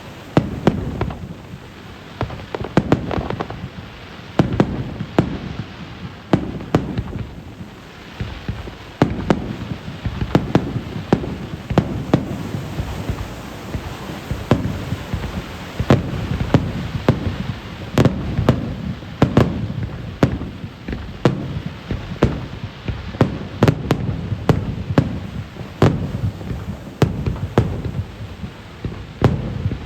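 Aerial fireworks shells launched and bursting one after another: repeated booms with sharp cracks and low rumbling echoes between them.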